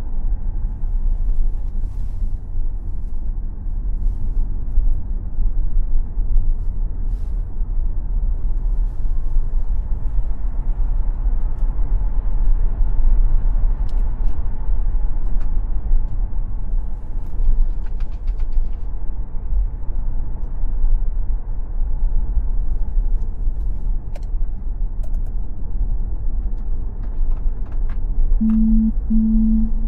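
Tesla Model X at track speed, heard from inside the car: a steady low road and tyre rumble with a faint electric-motor whine and no engine note. Near the end a pulsing ring tone starts, an incoming phone call.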